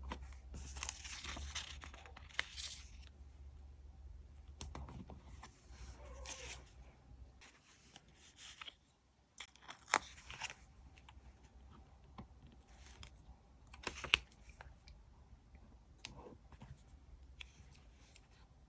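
Paper stationery being torn and rustled in diary decorating, a noisy tearing stretch of about two seconds starting half a second in. Softer rustling follows, with a few sharp clicks, the loudest about ten and fourteen seconds in.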